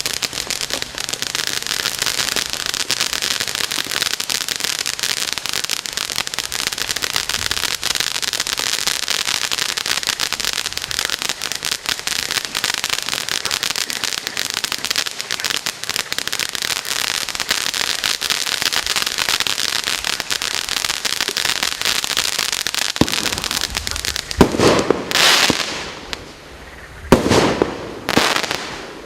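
Maxsem Sky Burst BS13 002 firework cake going off. For over twenty seconds it gives a dense, continuous crackle. Then come about four separate louder bangs near the end.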